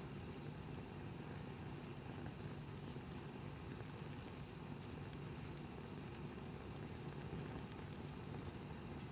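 Insects chirping: a steady high chirp repeating two or three times a second, and a higher trill that comes and goes every couple of seconds, over a steady low rumble with a few faint clicks.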